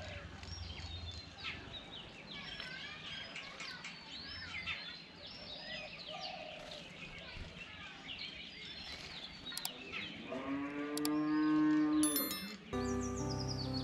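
Many small birds chirping and twittering in quick overlapping calls. About ten seconds in, a cow moos once, a long call of about two and a half seconds that rises and falls. Background music comes back in near the end.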